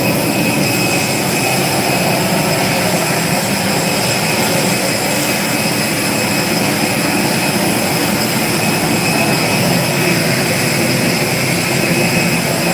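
Aircraft turbine running steadily: a loud, even rush with a high, steady whine over it.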